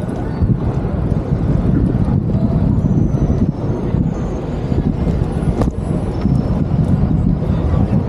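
Busy city street noise: traffic going by, with a steady low rumble of wind buffeting the microphone.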